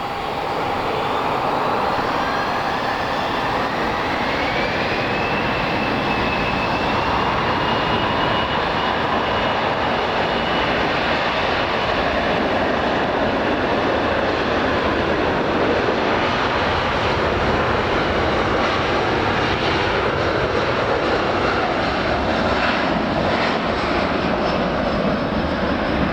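Boeing 737-500's CFM56-3 turbofan engines running up to high thrust, the typical start of a takeoff run: a whine rises in pitch over the first few seconds, then holds steady over a loud, even engine noise.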